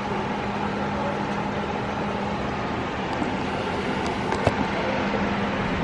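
Steady outdoor mechanical hum and road noise with a constant low drone, and a brief tick about four and a half seconds in.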